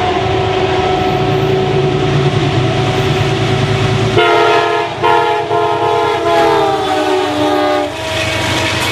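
A train running past with a steady rumble, then its multi-chime air horn sounding in two blasts, the second about three seconds long, its pitch dropping as the train goes by.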